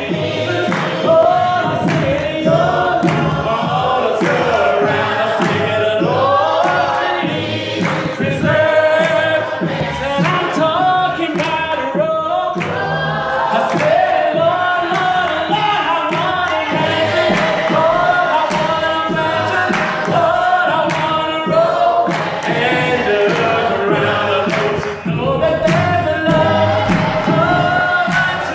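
Church congregation singing a gospel song together, with a steady beat of sharp strikes under the voices.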